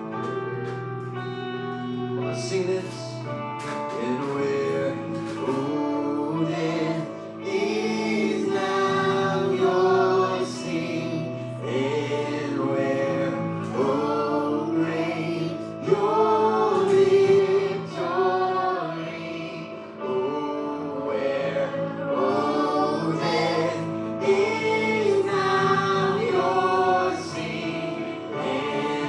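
Live church worship music: a group of singers over guitar and band accompaniment.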